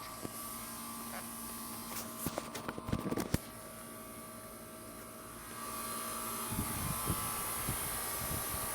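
Carrier 38CKC air-conditioning condensing unit humming steadily, with a few clicks and rattles about two to three seconds in. A louder low rumble comes in about six seconds in.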